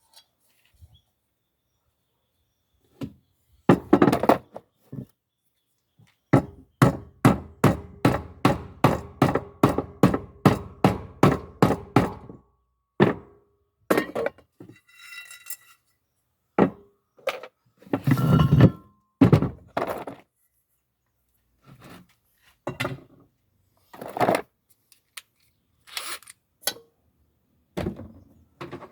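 Hand tool knocking on metal cookware while a pan handle is fitted: a run of quick, even blows, about three a second for some six seconds, then scattered single knocks and clinks, with a brief metallic ringing in the middle.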